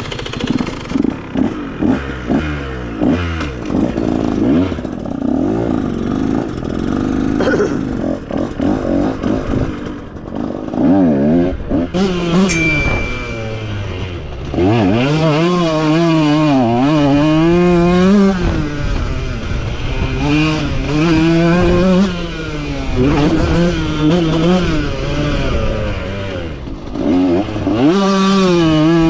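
KTM motocross bike's engine revving as it is ridden, its pitch climbing and dropping again and again with throttle and gear changes, steadier and louder from about a third of the way in.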